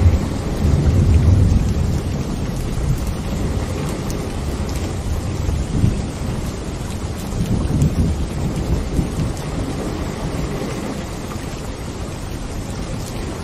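Steady rain with low rumbles of thunder, the strongest about a second in and more around six and eight seconds.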